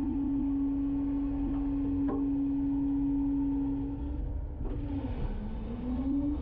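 Garbage truck's engine and hydraulic packer running: a steady whine over a low engine rumble. A short knock comes about two seconds in, and about four seconds in the whine drops in pitch, then climbs back near the end.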